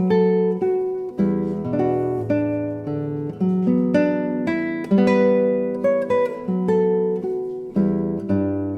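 Classical guitar music: a run of plucked notes and chords, each note ringing and fading.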